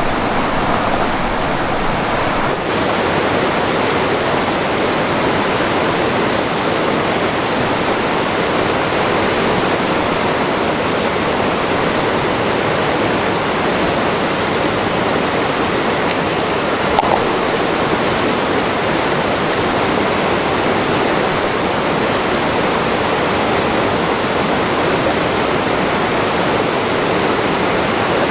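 Mountain stream water rushing and splashing over rocks, a steady loud rush that stays the same throughout, with one brief small sound about 17 seconds in.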